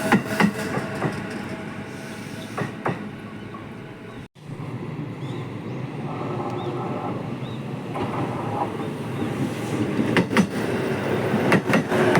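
Ome Line train running along the track, its wheels clicking over rail joints. The sound drops out briefly about four seconds in, then the running noise builds again, with more wheel clicks near the end.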